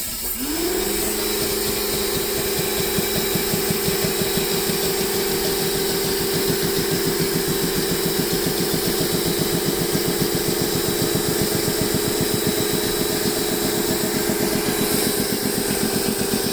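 Karcher 1800 psi pressure washer starting up, its pitch rising over the first second, then running steadily with a fast pulsing while feeding a 15-inch surface cleaner spraying water onto a wood deck.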